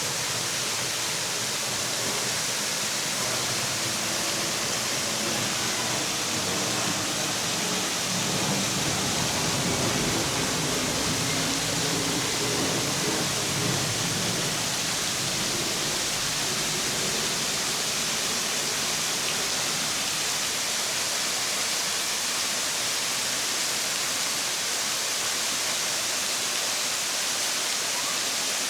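Kursunlu Waterfall's cascading water making a steady rushing hiss, with a deeper rumble swelling for several seconds in the middle.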